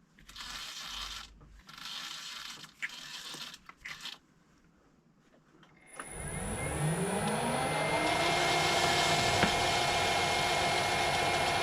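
Irregular scraping and rubbing of metal parts for about four seconds, then a short pause. About six seconds in, the electric motor of a metal lathe starts up, its whine rising in pitch as it spins up, and then runs steadily.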